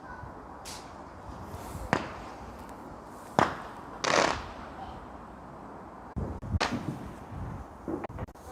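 Fireworks going off: a handful of separate sharp bangs spread over a few seconds, the loudest about three and a half seconds in, followed by a longer hissing burst.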